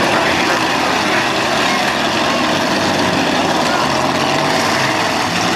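Demolition derby car engines running loudly and steadily.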